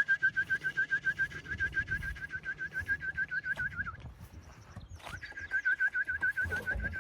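A person whistling a fast warbling call to bring racing pigeons in to the loft, a steady pitch wavering about eight times a second. It stops about four seconds in and starts again a second later.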